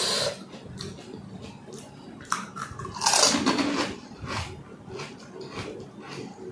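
Someone eating panipuri, crunching the crisp fried puri shells and chewing, in many short crackles with a louder burst about three seconds in.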